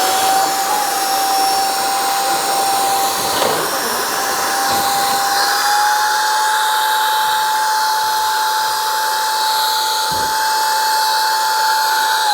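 Small battery-powered electric blower running steadily to inflate an air mattress: a whine over a rush of air that rises slightly in pitch about halfway through, then switches off and winds down at the very end.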